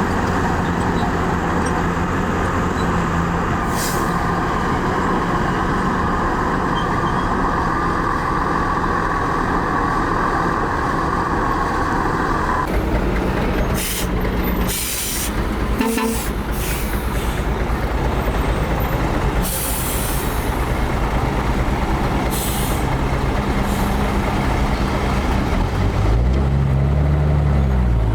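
Heavy diesel engines of a dump truck and earthmoving machinery running, with short hisses of a truck's air brakes several times in the second half. An engine revs up and down near the end.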